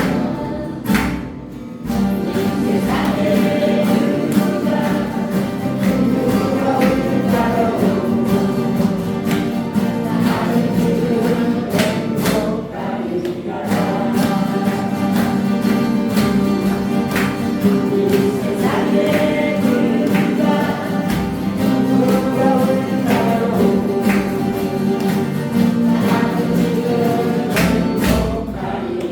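A group singing a song together in chorus, accompanied by strummed acoustic guitars.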